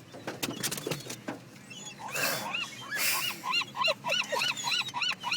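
Birds calling in a fast run of short, arched calls, several a second, starting about two seconds in. A few sharp clicks and rustles come before.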